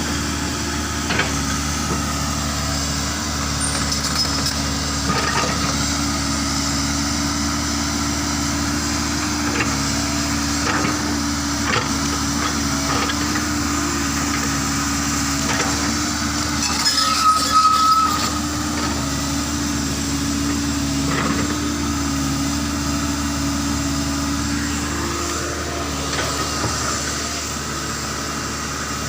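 Diesel engines of two excavators running steadily while they dig and load soil, with scattered knocks from the work. About seventeen seconds in there is a louder burst with a short high squeal and a hiss.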